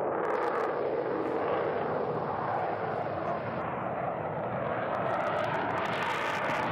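Jet airliner's engines running, a steady rushing noise that holds level throughout.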